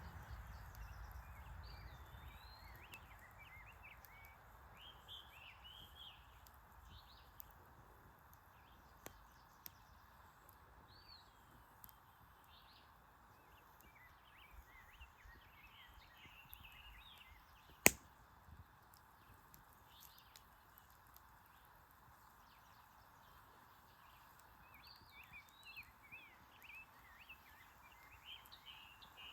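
Faint steady rush of a flowing stream, with small birds chirping on and off above it. One sharp click about eighteen seconds in is the loudest sound.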